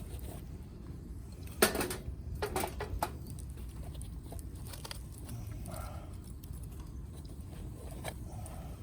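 Wood fire burning in a Uniflame wood grill over a steady low background noise, with a quick cluster of sharp pops and crackles from the burning firewood about one and a half to three seconds in, the first pop the loudest.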